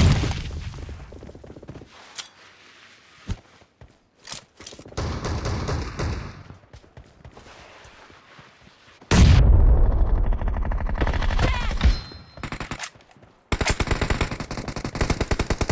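Video-game gunfire in a team shooter match: a sharp shot at the start and scattered bangs, a loud deep burst lasting about three seconds from about nine seconds in, then rapid automatic fire from about thirteen and a half seconds.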